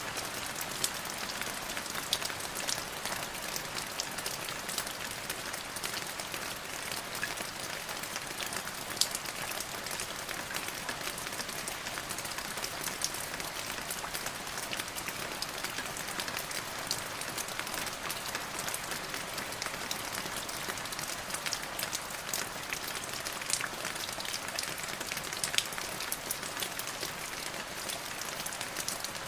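Steady rain falling, an even hiss with many distinct drop ticks scattered through it.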